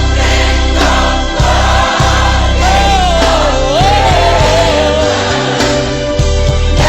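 Gospel choir singing with band accompaniment. A single melodic line slides and wavers above sustained chords and a steady bass.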